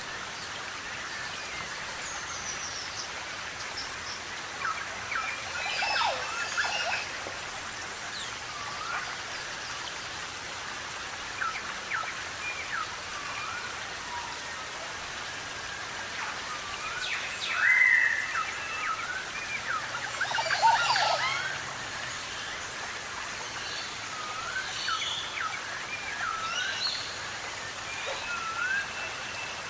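Several wild forest birds calling: many short whistled chirps and upswept notes over a steady hiss, with a couple of louder calls partway through.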